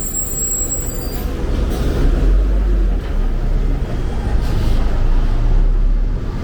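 Road traffic on a city street: a vehicle's deep rumble swells from about two seconds in and stays loud.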